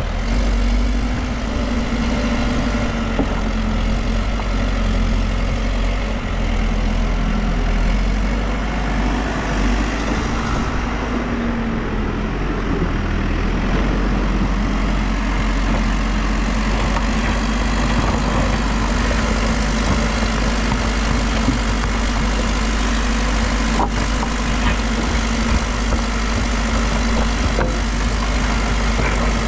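New Holland backhoe loader's diesel engine running steadily, with a deep drone that eases briefly about a third of the way in before settling back.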